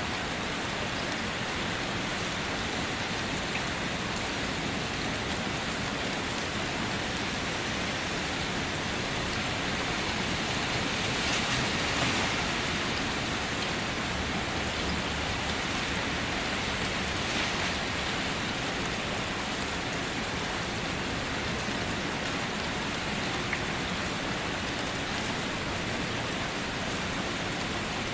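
Steady rain falling on a surface, with scattered drops ticking. The rain swells slightly about eleven to thirteen seconds in.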